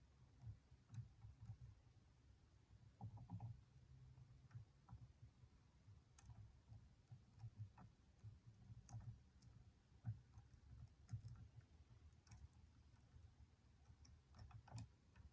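Faint, scattered metallic clicks of a lock pick and tension wrench working the pins of a Stanley padlock, at irregular intervals over a low steady hum.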